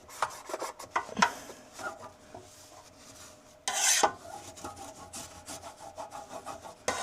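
Rubbing and scraping as a freeze-dryer shelf is wiped and scrubbed during cleaning, with scattered small clicks. A louder rasping rush comes about four seconds in.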